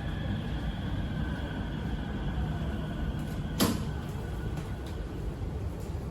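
Inside an MRT Purple Line train car: a steady low rumble with a faint, slowly falling whine as the train slows at a station. A single sharp click comes about three and a half seconds in.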